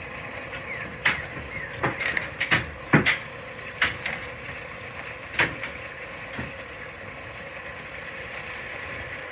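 A quick run of sharp knocks and clanks, about a dozen between one and six and a half seconds in, over a steady mechanical hum; the last few seconds hold only the hum.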